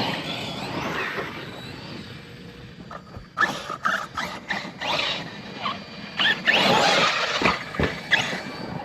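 Electric RC car driving on rough ground: motor whine with tyres scrabbling, a run of sharp clattering knocks about three and a half seconds in, and a loud noisy rush around seven seconds.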